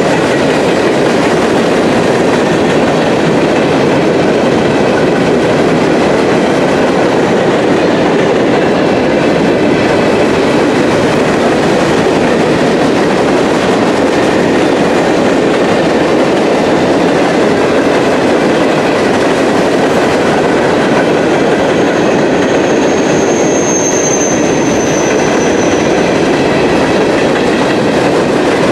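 Empty freight cars of a coke train rolling by in a steady, loud run of wheels on rail, with clickety-clack over the rail joints. A brief thin wheel squeal comes about three-quarters of the way through.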